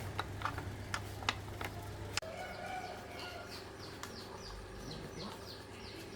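A few sharp taps and a low hum that cuts off about a third of the way in, then a bird chirping in a quick run of short, falling chirps.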